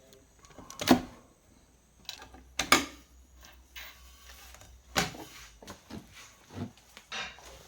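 A series of sharp knocks and clatters, about five, spaced a second or two apart; the two in the first three seconds are the loudest.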